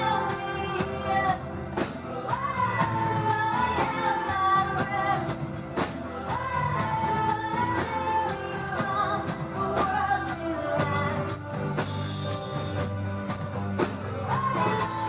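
Live pop-rock band playing, with a woman's voice singing a held, wavering melody over drums keeping a steady beat.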